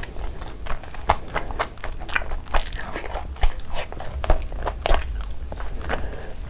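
Close-miked chewing and wet lip smacking of a person eating handfuls of curried rice and chicken, with many short sticky mouth clicks, several a second.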